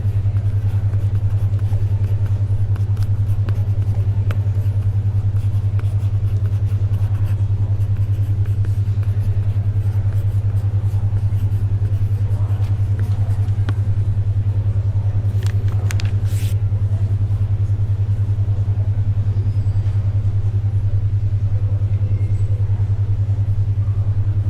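Low steady hum pulsing rapidly, a 10.2 Hz alpha-wave brainwave tone, over faint library ambience with scattered small clicks and a brief rustle about sixteen seconds in.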